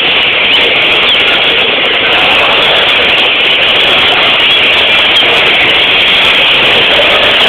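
A dense, steady chorus of many caged great-billed seed finches (bicudos) singing at once, their overlapping high notes merging into a loud, continuous wash.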